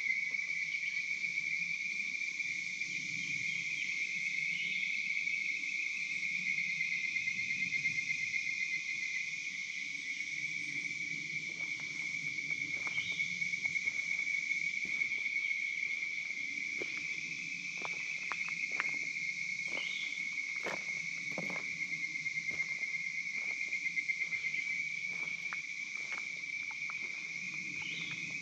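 Steady chorus of swamp insects: a continuous high trill that pulses finely and never stops. Scattered soft clicks come through it from about halfway on.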